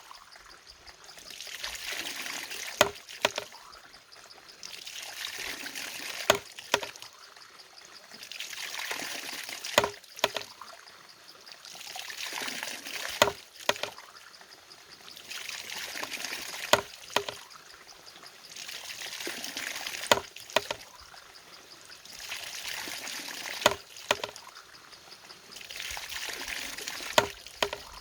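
Water-powered mechanism working in a steady cycle: pouring water swells and falls away about every three and a half seconds, and each cycle ends in a sharp knock.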